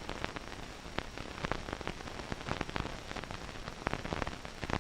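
Crackle and hiss of an old film soundtrack: a steady hiss with scattered irregular clicks and pops.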